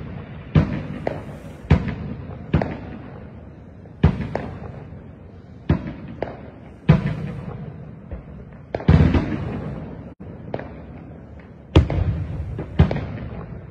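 Fireworks going off: about a dozen sharp bangs at uneven intervals, each trailing off in echo.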